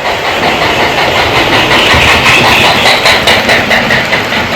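Lionel O gauge toy steam locomotive running on the track: a loud, steady clatter from its motor and wheels, with some irregular clicks about three seconds in.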